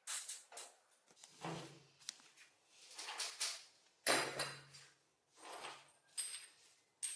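A run of short, irregular scraping and rubbing strokes of hand work on the rusty cast iron parts of an antique corn sheller, the loudest about four seconds in.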